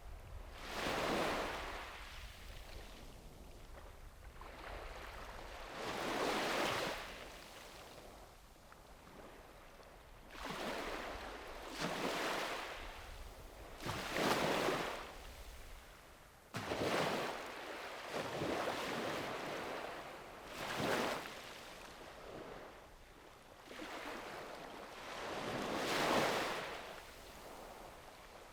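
Small sea waves breaking and washing up a beach, one after another every few seconds. Each wave is a swell of hiss that rises and fades away.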